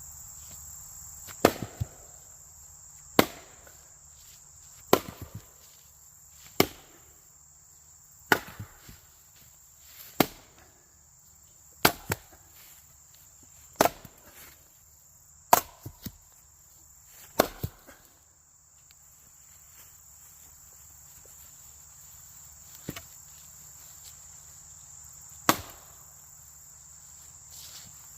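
Splitting axe striking wood: about ten sharp blows roughly two seconds apart, some followed by a quick second knock, then a pause and two more blows near the end. A steady high insect chirring runs underneath.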